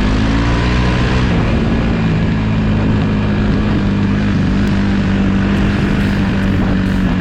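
Dirt bike engine running at steady revs, its pitch shifting a little about a second in.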